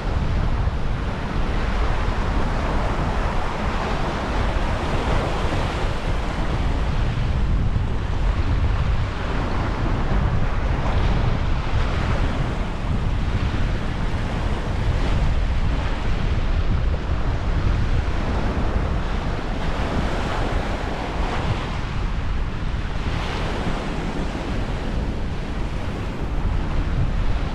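Small waves washing onto the beach in surges every few seconds, with wind buffeting the microphone.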